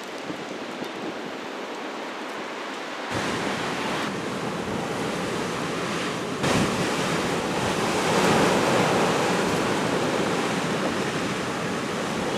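Strong storm wind blowing in gusts, buffeting the microphone. It turns louder and deeper abruptly about three seconds in and again a few seconds later.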